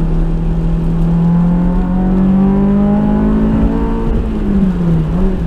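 Honda S2000's four-cylinder engine running under way, its note rising slowly, then dipping briefly near the end before it steadies again.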